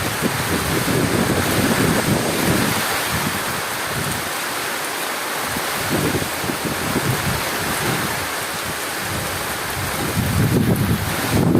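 Heavy rain falling as a steady hiss, with low rolling thunder that swells and fades, loudest near the end.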